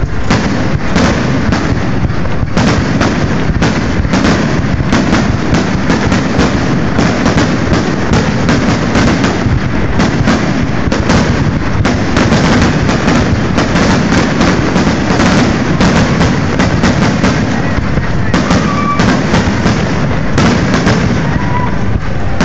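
Aerial fireworks shells launching and bursting in rapid succession: a dense, continuous string of overlapping bangs and booms.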